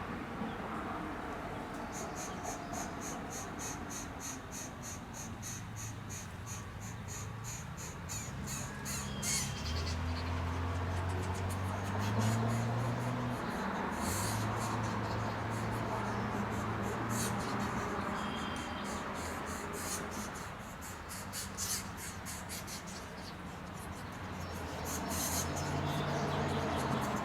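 Insects calling in rapid, high-pitched pulses that start and stop, over a low steady hum that comes and goes.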